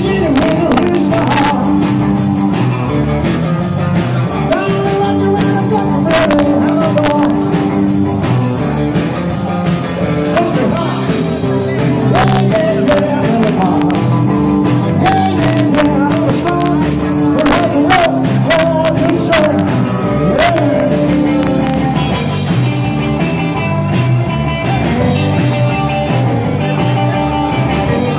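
Live rock and roll band playing, with a singer's voice wavering over the guitar, bass and drums.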